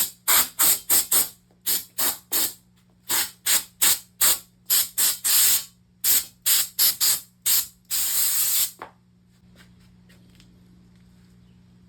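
Aerosol spray can sprayed in quick short hissing bursts, in runs of several at a time, then one longer burst of about a second some eight seconds in. After that only a faint low hum remains.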